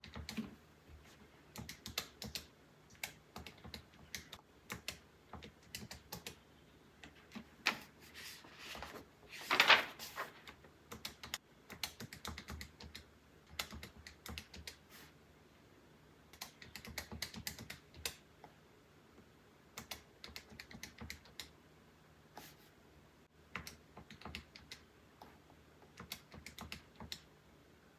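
Paper banknotes and envelopes being handled: irregular soft clicks, flicks and crinkles of bills being counted and stuffed, with one louder, longer rustle a little before halfway through.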